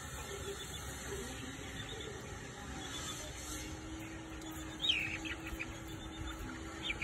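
Faint high bird chirps: a short one about five seconds in and a couple more near the end, over quiet background noise with a faint steady low hum.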